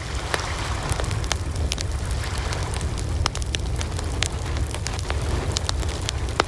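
Wood fire burning: a steady low rumble of flames with sharp crackles and pops from the burning wood, several a second at irregular intervals.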